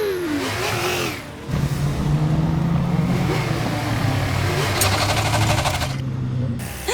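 Engine sound effects of cartoon trucks racing: a steady engine drone with some rising and falling pitch, dipping briefly about a second in.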